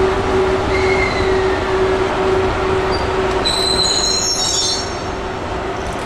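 Train cars rolling past on the rails with a steady rumble, a faint falling wheel squeal about a second in, and a louder high-pitched wheel squeal from about three and a half to nearly five seconds in. A steady pulsing tone sounds under it throughout.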